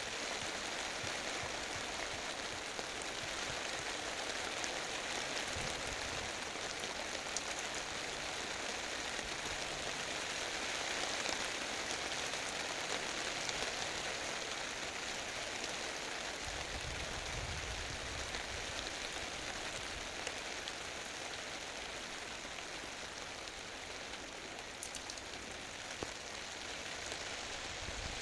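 Light rain falling steadily, an even patter, with a brief low rumble about two-thirds of the way through.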